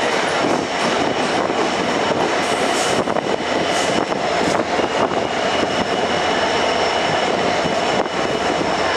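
Passenger train running steadily at speed: a continuous rush of wheels on rail and wind, with a few faint steady high tones over it.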